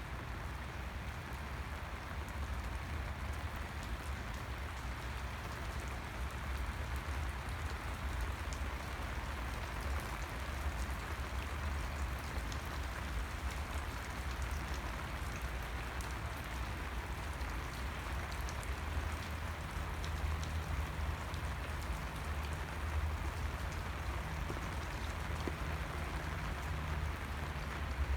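Steady rain falling, with scattered sharp drop ticks over an even hiss and a low rumble underneath. A faint low steady hum joins in the second half.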